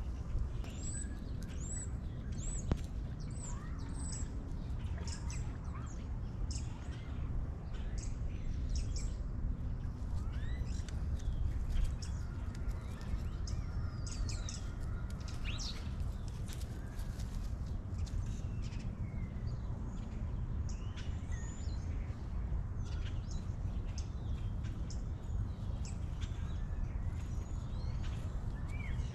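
Small birds chirping and calling over and over, short high notes and quick sweeping calls, over a steady low outdoor rumble.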